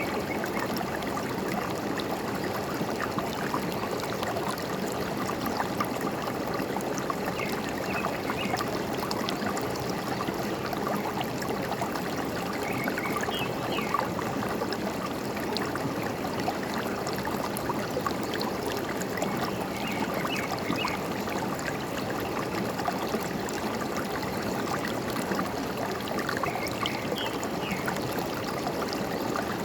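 Forest stream running and gurgling steadily, with a small bird chirping briefly about every six or seven seconds.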